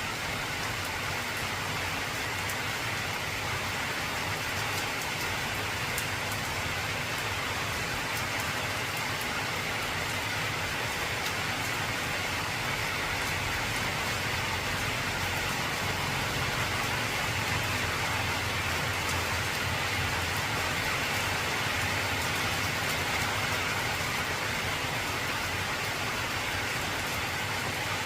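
Heavy rain drumming steadily on an old corrugated zinc (tin) roof, a dense, even patter with no breaks.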